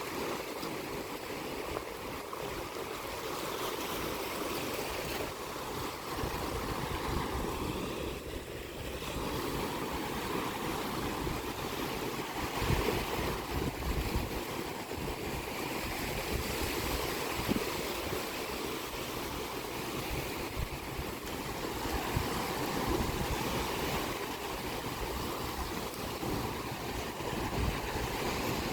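Sea waves breaking and washing on the shore in a steady wash of surf, with wind buffeting the microphone now and then.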